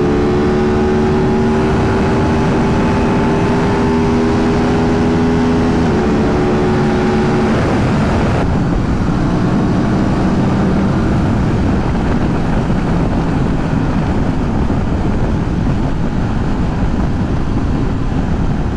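Aprilia 660 parallel-twin motorcycle engine accelerating hard, its note rising steadily, with a gear change about six seconds in. After about eight seconds the engine note fades and a steady rush of wind noise takes over.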